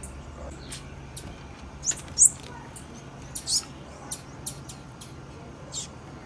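Female blue-black grassquit (tiziu) calling: short, high chirps repeated at irregular intervals, about a dozen in the span of a few seconds.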